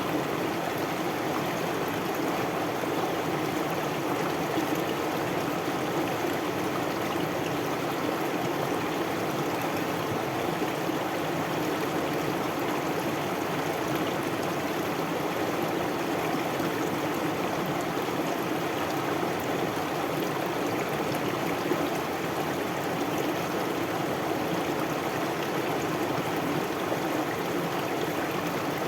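A stream of water flowing steadily, an even, unbroken sound of running water.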